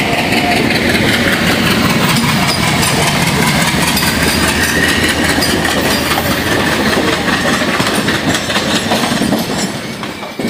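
Passenger express train running along the track, heard from beside the moving coach: a steady loud rush of wheel and rail noise with a light clickety-clack of the wheels over rail joints, easing off near the end.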